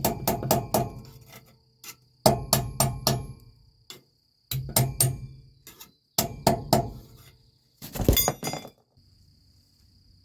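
Hammer blows on the steel of a trailer brake S-cam assembly, in bursts of four to six quick strikes about two seconds apart, the last burst near the end the densest.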